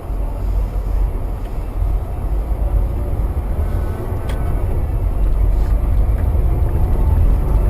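Steady low rumble of a moving vehicle, engine and road noise, growing louder toward the end.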